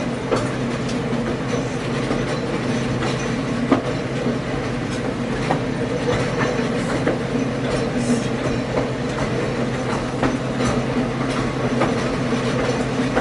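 Passenger train rolling along the track, heard from inside the coach: a steady rumble and hum with scattered clicks and knocks from the wheels over rail joints, one sharper knock about four seconds in.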